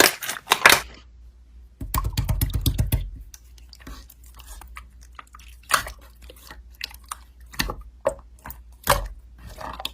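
Slime being pressed and worked by hand, giving scattered sticky clicks and crackles, with a denser run of crackling about two seconds in.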